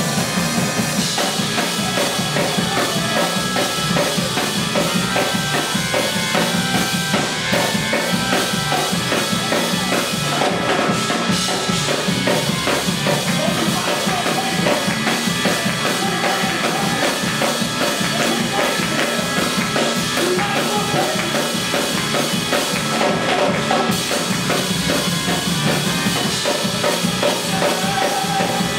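Band music driven by a drum kit, with bass drum and snare keeping a steady beat under sustained instrument tones.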